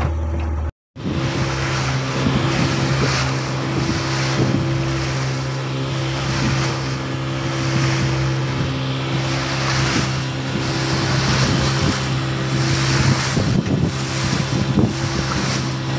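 Fishing boat's engine running steadily while under way, with wind buffeting the microphone and water rushing past the hull. The sound cuts out briefly about a second in, then resumes.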